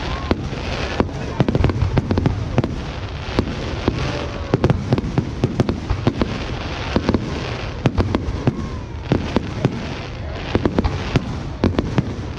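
Fireworks display: a rapid, unbroken volley of sharp bangs and cracks, several a second, over a continuous low rumble of distant bursts.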